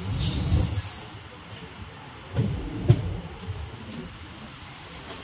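Train running on the railway line: a low rumble that surges twice, with thin high wheel squeal coming and going above it.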